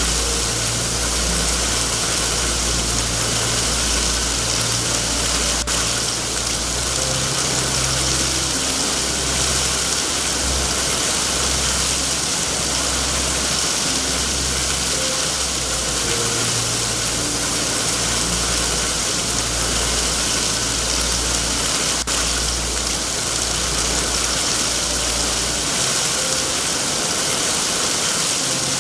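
Steady heavy rain hiss with a low rumble underneath, and two single sharp clicks, one early and one about three quarters of the way through.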